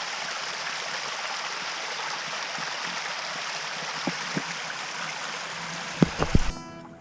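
Steady rush of running water from a low-flowing waterfall. A few sharp knocks come near the end, then the water sound cuts off abruptly and music starts.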